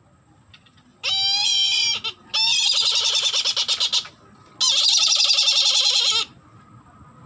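A captive bird of prey, one of a pair kept as pets, calling three times: loud quavering cries, the first about a second long, the next two longer.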